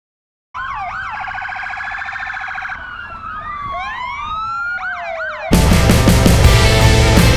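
Several emergency-vehicle sirens sounding at once, their tones rising and falling across one another, one with a fast warble for the first couple of seconds. About five and a half seconds in, loud rock music cuts in over them.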